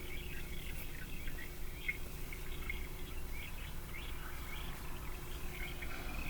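Small songbirds chirping, with many short, high calls scattered throughout, over a steady low hum.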